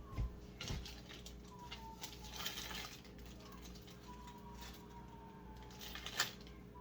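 Handling sounds of computer cables and case parts being worked by hand: light clicks and knocks, the sharpest near the end, and a brief rustle about two and a half seconds in. A faint, drawn-out whistling tone also runs through the middle.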